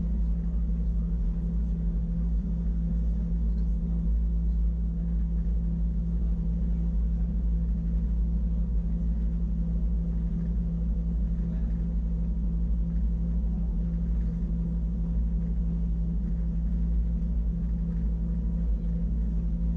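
Wengernalp Railway electric rack-railway train running, heard from inside the carriage: a steady low rumble with a constant motor hum.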